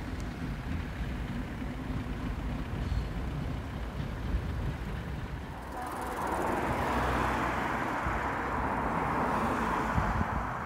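An EN57AL electric multiple unit moving slowly on the tracks, its running noise growing louder from about six seconds in. Wind buffets the microphone throughout.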